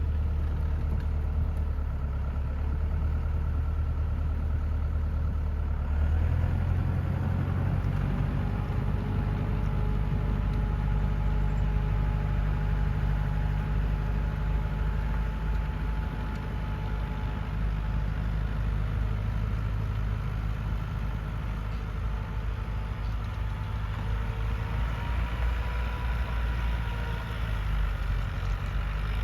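Lovol tractor's diesel engine running steadily, its speed stepping up about six seconds in, with a faint thin whine riding over it.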